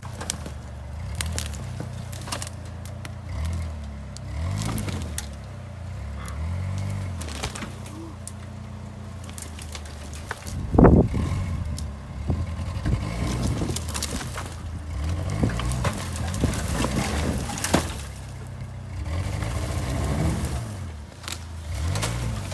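Suzuki Escudo SUV engine revving up and falling back again and again while it drives off-road through snow, with scattered cracks, scrapes and knocks. One loud thump comes about eleven seconds in.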